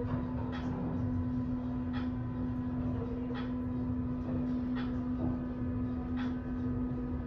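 Kone Marine (former MacGregor) scenic elevator car riding up its shaft: a steady low hum over a rumble, with a soft tick about every second and a half.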